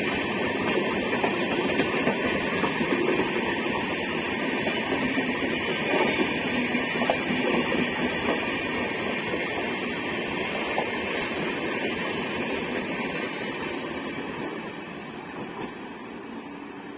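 Passenger train coaches rolling past on the track: a steady rumble of wheels on rail with a few clicks, fading near the end as the last coach moves away.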